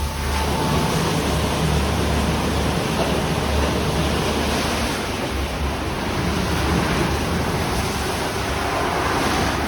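Istobal Restyle rollover car wash spraying water over a car: a steady rushing hiss with a low machine hum underneath.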